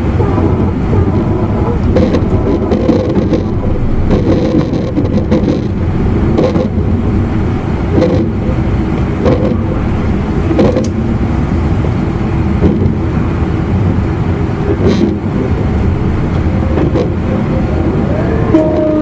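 E259 series Narita Express motor car running at speed: a steady rumble of wheels on rail, with short knocks every second or two as the wheels cross rail joints. Near the end a steady tone sets in and slides slightly lower.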